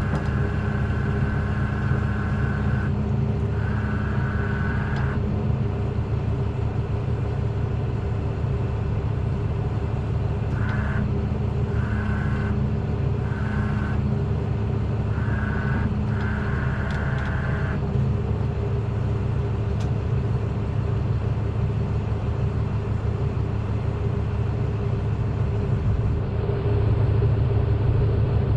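Truck engine idling steadily, with a higher whine that comes in briefly a few seconds in and then on and off several times in the middle.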